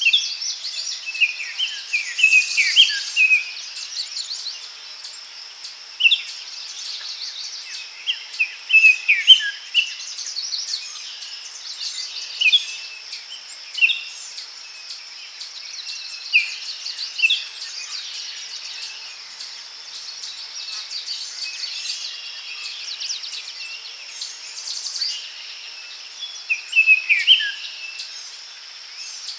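Forest daytime ambience: songbirds calling in short falling chirped phrases every few seconds over a steady high insect drone.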